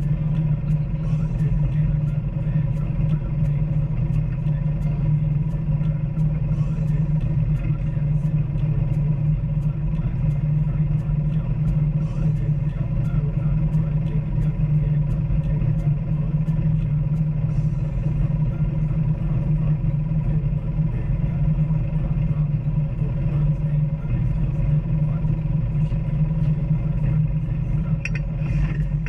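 Off-road vehicle engine running at a steady speed while driven along a trail, a constant low drone with light clicks and rattles scattered through it.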